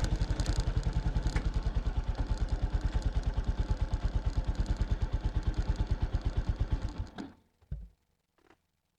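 Exhaust of a 1993 Kawasaki Estrella 250's single-cylinder engine through its stock muffler, idling with an even, steady beat. The engine is switched off about seven seconds in, dying out quickly, followed by a faint knock and a click.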